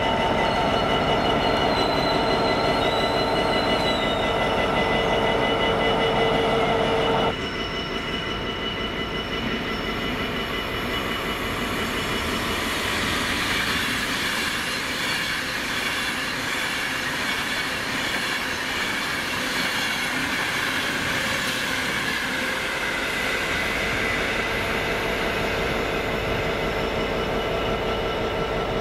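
Electric or diesel trains at a station platform. First comes a steady hum of several held tones, which cuts off abruptly about seven seconds in. Then a train runs through with wheel and rail noise that builds about twelve seconds in and carries on steadily.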